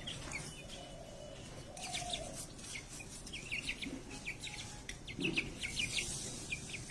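Birds chirping in quick clusters of short, high notes, with an occasional lower hen cluck.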